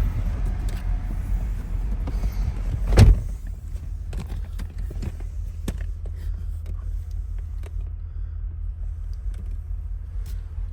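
Motor vehicle running with a steady low rumble. A single loud thump comes about three seconds in, after which the rumble goes on more quietly with scattered light clicks.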